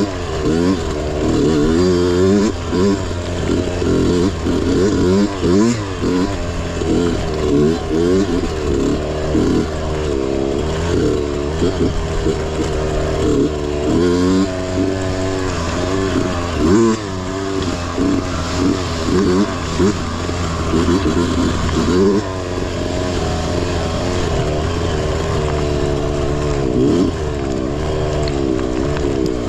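Mini bike engine racing off-road, its pitch rising and falling over and over as the throttle is opened and closed.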